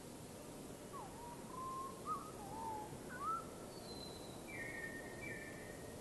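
Wild birds calling over a steady background hiss: a few short whistled notes sliding up and down, then some higher, flatter notes.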